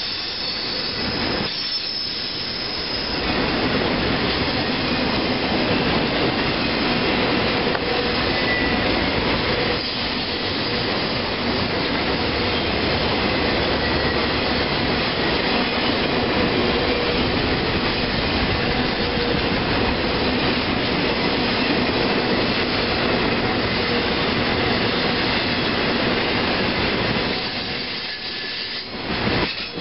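Intermodal freight cars of a Norfolk Southern train rolling past close by: a steady rumble and rush of steel wheels on rail, with faint thin high tones from the wheels over it. The sound dips briefly near the end as the cars keep passing.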